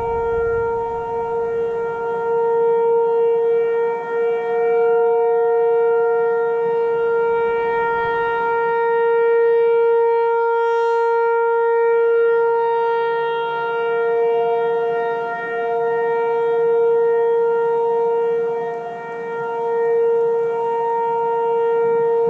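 Outdoor warning siren sounding a steady, unwavering tone, its loudness swelling and fading every few seconds as the rotating horn sweeps past.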